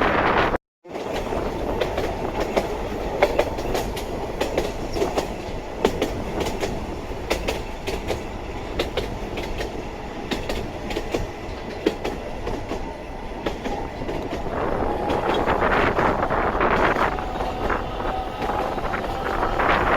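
Sangi Railway Hokusei Line narrow-gauge electric train running, with wheels clicking over rail joints through a steady rumble. About fifteen seconds in the noise grows louder and a steady high whine comes in. The sound cuts out completely for a moment under a second in.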